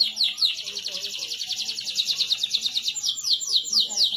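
Domestic canary singing a fast, rolling trill of rapid repeated notes, which changes about three seconds in to a slower series of falling notes, about five a second.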